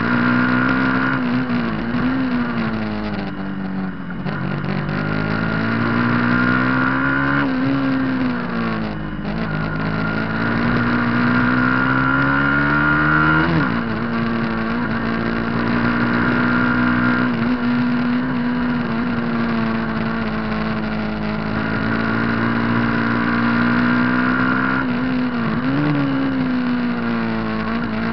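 Racing superbike's engine at high revs, its pitch climbing and falling through the gears and dipping sharply several times as it slows and shifts down, then climbing again.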